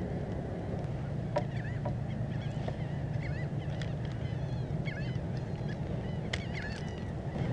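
A flock of water birds chattering with many short, bending calls, over a steady low rumble, with a few sharp clicks scattered through.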